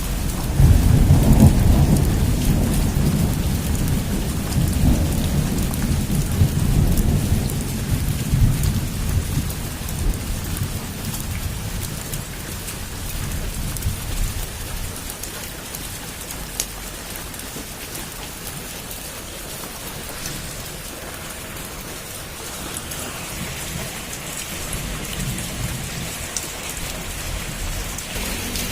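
Heavy rain falling steadily, with a long low rumble of thunder near the start that fades away over about ten seconds.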